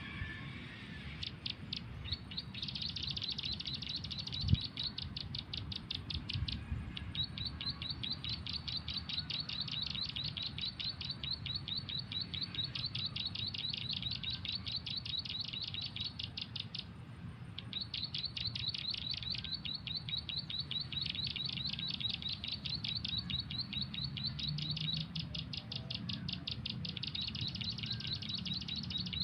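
Bird chirping: a long, rapid, even series of short high notes that breaks off briefly about six seconds in and again around seventeen seconds in, then resumes, over a low steady rumble.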